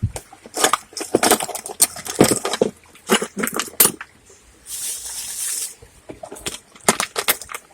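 Loose items being rummaged through and handled: a quick, irregular run of knocks, clicks and clinks, with a brief hiss about five seconds in.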